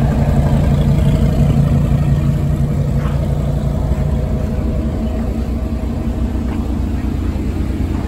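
A car engine running steadily, a low even drone that eases off slightly partway through.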